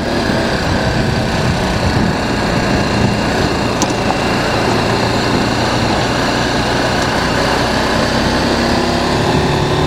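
BMW G 310 GS single-cylinder motorcycle engine running steadily under way on a gravel road, mixed with steady wind and road noise. The engine note rises slightly near the end.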